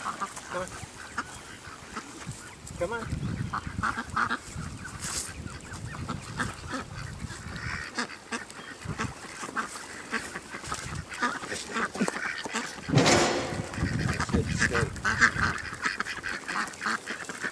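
A flock of ducks calling over and over with short honks and quacks, with a louder outburst about thirteen seconds in.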